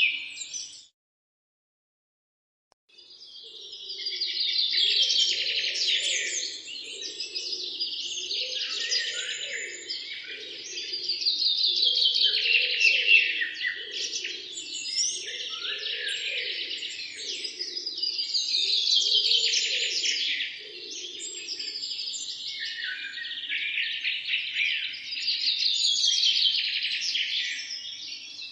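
Morning chorus of many songbirds singing and chirping over one another. The sound cuts out completely for about two seconds near the start, then the chorus fades back in, with a lower pulsing sound underneath until past the middle.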